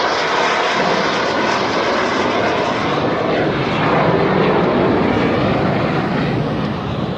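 F-16 fighter jet passing low overhead, its single jet engine very loud. The noise builds to a peak about four seconds in and eases slightly near the end.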